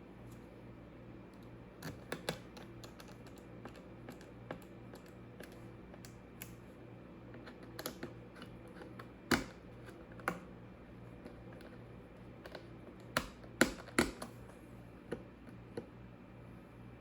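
Laptop keyboard keys pressed in an irregular, scattered run of clicks, with a few louder clacks about midway and near the end.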